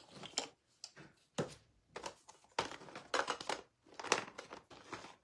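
Irregular light clicks, taps and paper rustling as craft supplies and prints are handled on a work table.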